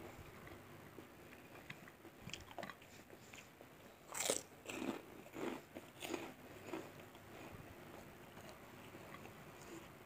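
Close-up crunchy chewing of crispy fried mackerel: one loud crunching bite about four seconds in, then four more crunchy chews about every half second, with faint mouth clicks before and after.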